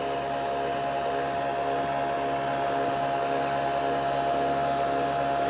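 Nespresso VertuoNext coffee machine brewing, its motor spinning the capsule at a steady high speed with an even, pitched whirring whine.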